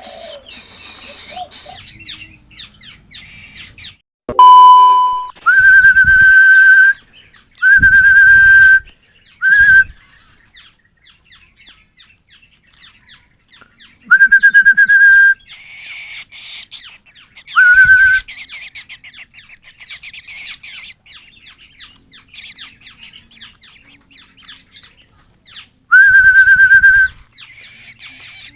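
Songbirds chirping and calling, broken by loud, steady whistled notes about a second long, repeated half a dozen times with long gaps between them.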